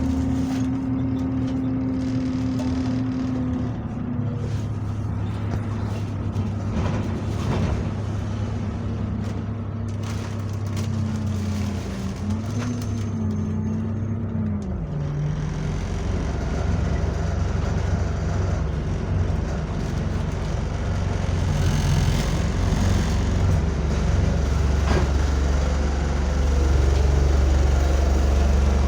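Bus drivetrain heard from inside the saloon: a steady whine that wavers and falls away about 14 seconds in as the bus slows. After that the engine runs at idle with a strong, steady low drone that grows louder near the end.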